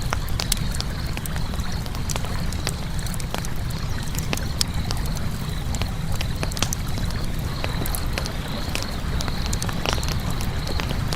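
Campfire crackling: frequent, irregular sharp pops and snaps of burning wood over a steady low rumble.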